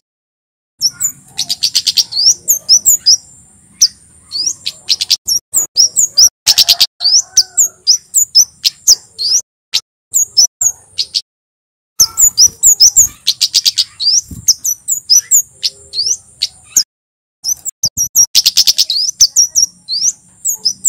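Male kemade Jawa, a flowerpecker, singing loudly: rapid runs of sharp, high chip and tick notes over a buzzy high trill, in bouts broken by short pauses about 11 and 17 seconds in.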